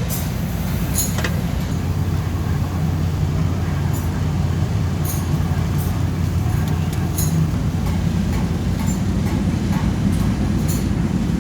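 Steady low rumble of running workshop equipment, with scattered short clicks and taps.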